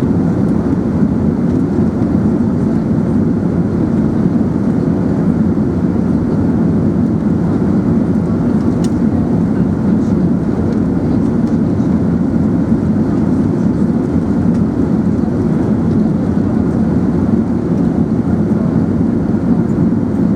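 Steady low rumble of an Airbus A380's engines and airflow heard inside the passenger cabin, even in level throughout.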